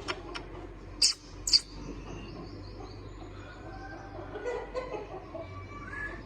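Pet parrot giving two short, shrill calls about a second in, half a second apart, then faint chirping.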